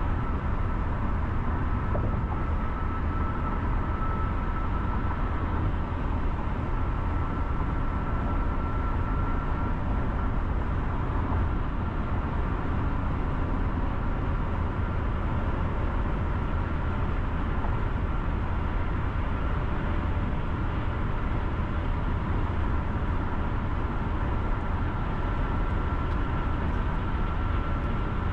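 A car driving steadily on city roads: a constant low rumble of tyres and engine, with a faint steady high whine over it.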